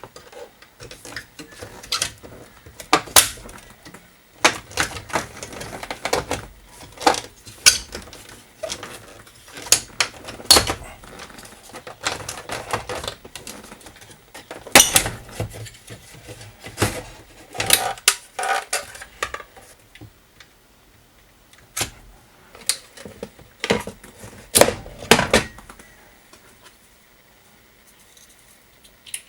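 Irregular sharp clicks and clatter of small metal hand tools and parts being handled and set down, in quick runs separated by short pauses.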